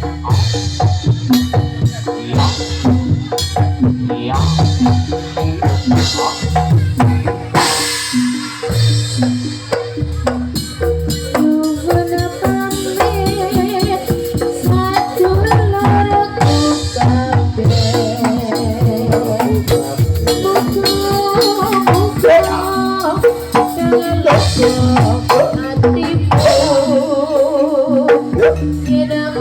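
Javanese gamelan music for a jathilan dance, played loud through a sound system: drums keep a fast, steady beat under rattling percussion and melodic metallophone lines.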